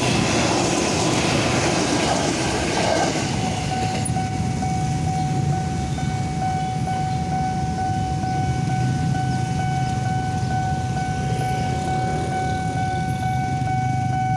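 An electric KRL commuter train runs past over the level crossing for about the first three seconds. After it clears, a steady high warning tone from the crossing signal carries on over a low rumble.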